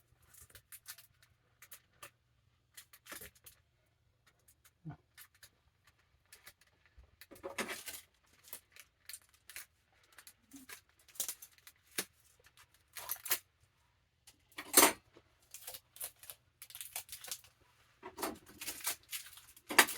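Tape being pulled, torn and handled as it is wrapped around a book's binding: irregular short rips and rustles, with a few longer pulls.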